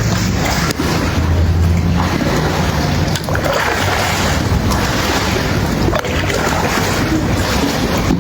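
Loud, steady rushing noise of floodwater with wind blowing on the microphone.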